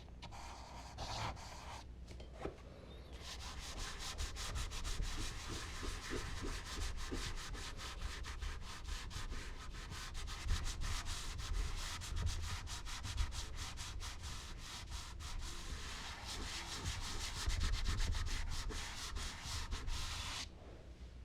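Charcoal and blending tools rubbing on smooth Bristol paper: a few scattered scrapes, then a long run of quick back-and-forth scratchy strokes from shading or blending that stops abruptly near the end.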